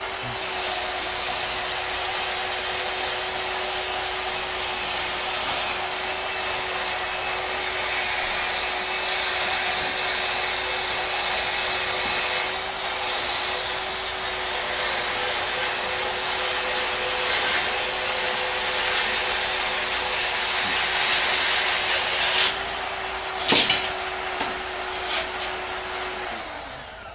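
Metal-cutting bandsaw running steadily through steel bar stock: a constant motor tone under a hiss from the blade. A sharp knock comes a few seconds before the end, and then the motor shuts off and winds down.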